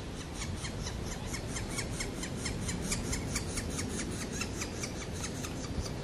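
A bird calling in a fast, even series of short repeated notes, about five or six a second, that fades out near the end.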